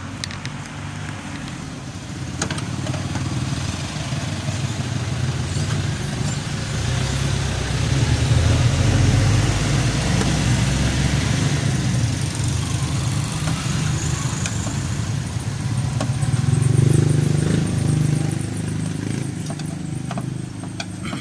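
Motor vehicle engine running, a low rumble that swells louder twice, with a few faint clicks.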